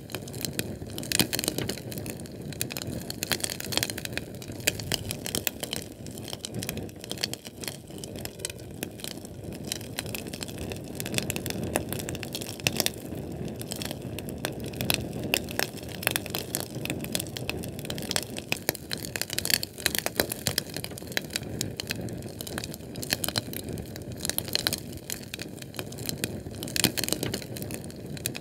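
Fire burning: a steady low rushing sound with frequent irregular crackles and pops.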